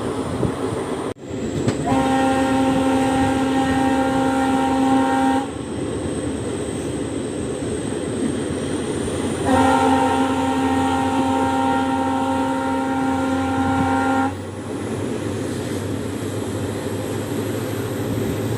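Horn of a WDP4B (EMD GT46PAC) diesel locomotive sounding two long blasts, each a steady chord of several tones, the second longer than the first. The locomotive's EMD 710 diesel engine runs steadily underneath.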